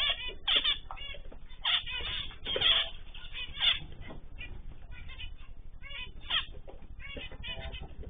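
Small cage birds chirping and calling together, with many short, overlapping calls.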